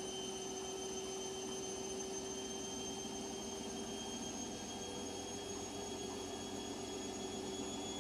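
Washing machine running: a steady hum with a high motor whine that slowly rises in pitch.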